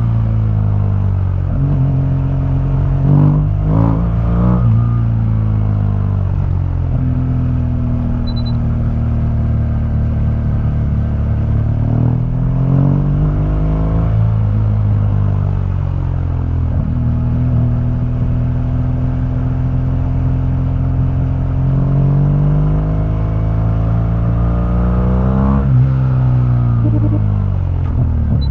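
2015 BMW R1200GS's liquid-cooled boxer twin running through its stock exhaust while riding. The engine note holds steady for long stretches and rises and falls in pitch a few times, around a few seconds in, near the middle and near the end.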